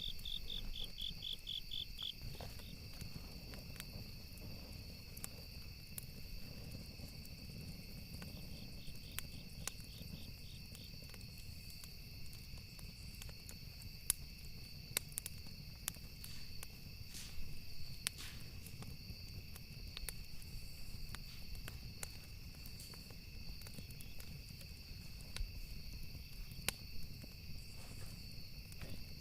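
Campfire with wood crackling: scattered sharp pops over a low rumble, alongside steady high insect chirping with short pulsed trills near the start and about ten seconds in.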